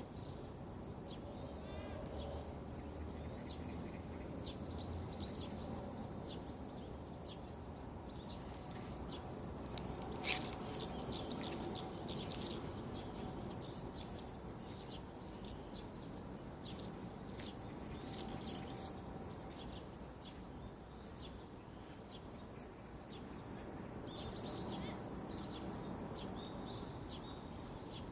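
Several small birds chirping and calling at dawn over a steady low background noise. The short high chirps come thick and fast, with busier bursts about ten seconds in and again near the end.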